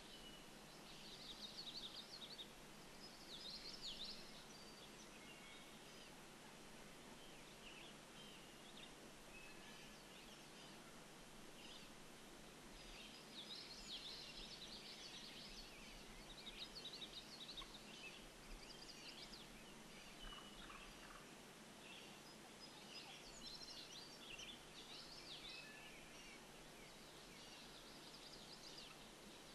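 Faint birdsong in the open: short, high chirping phrases repeat every few seconds over a steady low hiss.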